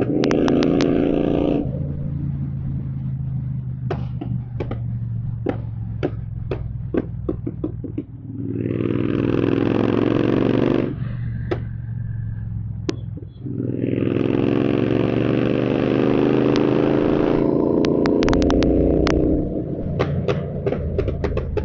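Royal Enfield Continental GT 650's 648 cc parallel-twin, running a Code 6 tune, accelerating hard three times. After each pull it decelerates on a closed throttle with a rapid string of sharp exhaust pops and crackles, the overrun pops and bangs that the tune produces.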